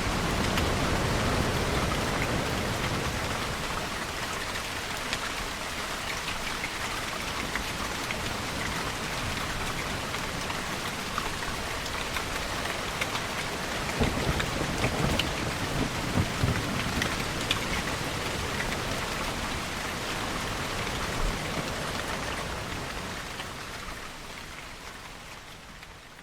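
Steady rain falling, with a low thunder rumble near the start and a louder, crackling one about halfway through. The whole sound then fades out near the end.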